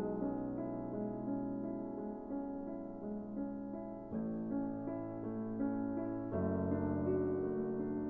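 Background piano music in sustained chords, with the bass moving to new notes about four seconds in and again about six seconds in.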